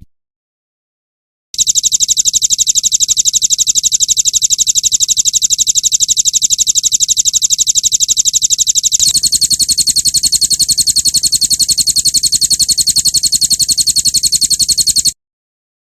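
Recorded songbird song of the rapid-fire 'tembakan' kind: a fast, even trill of repeated high notes starts about a second and a half in. About nine seconds in it switches abruptly to a second, higher and brighter trill, which cuts off suddenly near the end.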